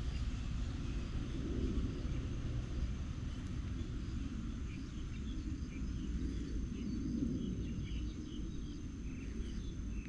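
Outdoor ambience: a steady, fluttering low rumble with scattered faint high chirps.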